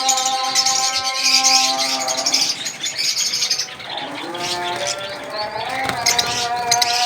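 Many small cage birds chirping together, high and rapid, over background music with long held tones that fade out a couple of seconds in and come back near the end.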